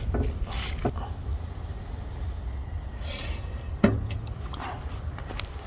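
Steady low wind rumble on the microphone, with a single sharp knock about four seconds in.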